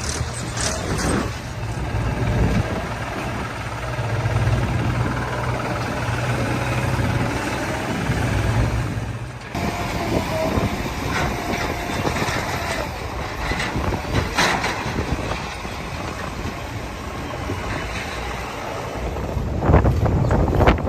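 Heavy diesel machinery running steadily, with a few sharp knocks; the sound changes abruptly about nine and a half seconds in.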